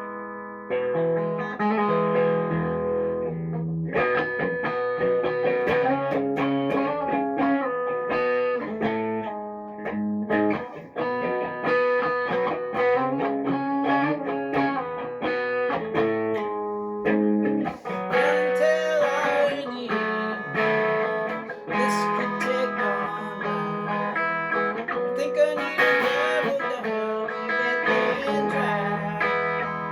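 Guitar music: a continuous run of plucked notes and chords.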